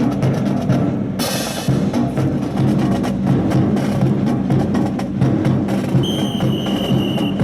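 Drum-heavy music with many sharp wooden clacks of drill rifles being slapped and struck in a rifle drill routine. A steady high tone sounds for over a second near the end.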